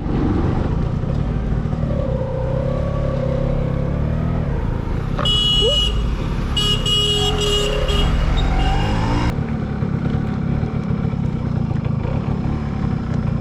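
Two-stroke motorcycle engine running on the road, its pitch rising and falling with the throttle. In the middle a vehicle horn sounds several times.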